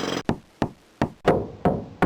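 A series of sharp knocks, about two or three a second, each dying away quickly. A steady buzzing noise cuts off just before the first knock.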